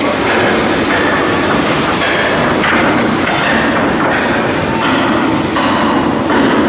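Loud, continuous clattering machinery noise of steel shipbuilding work.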